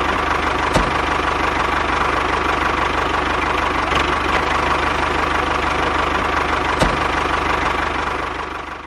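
Small engine of a homemade mini tractor running steadily with a rapid firing beat, with a few sharp clicks; it fades away near the end.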